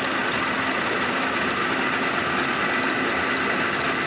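Workshop machinery running steadily: a continuous mechanical noise with a constant high whine and a lower hum.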